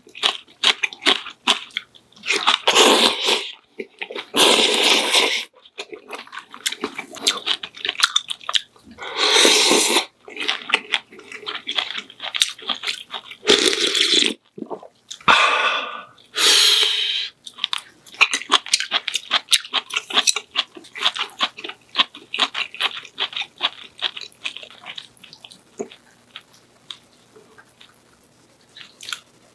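Close-miked person eating: steady chewing with many small crunchy and wet mouth clicks, broken by several louder bursts of about a second each.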